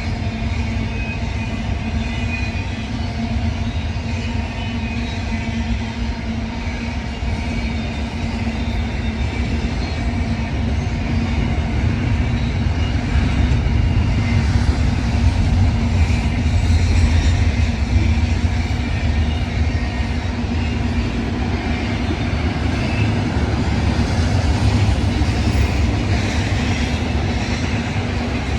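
A train passing close by: a continuous heavy rumble of wheels on rail with a steady low hum, growing louder through the middle.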